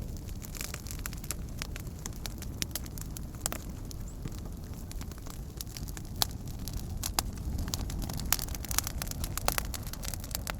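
Wood campfire burning, a steady low rush under frequent sharp, irregular crackles and pops.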